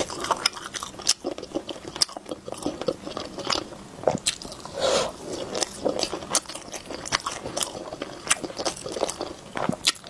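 Close-up chewing and biting on a teriyaki chicken skewer: irregular wet mouth clicks and smacks.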